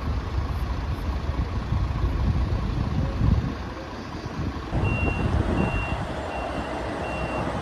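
Heavy vehicle's engine running with a low rumble; about two-thirds of the way in its reversing alarm starts, four short high beeps evenly spaced.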